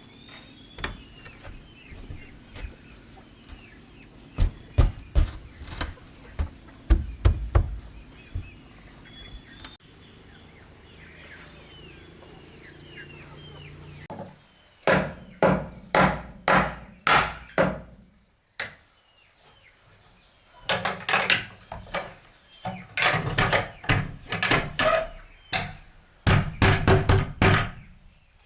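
Repeated blows on wood: a few scattered strikes, then steady runs of striking at about two blows a second. Faint bird chirps sound in the background during the first half.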